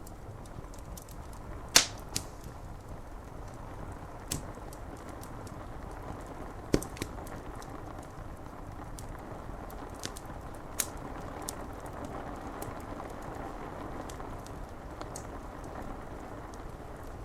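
Steady rain on window glass with a wood fire crackling, a few sharp pops standing out, the loudest about two seconds in.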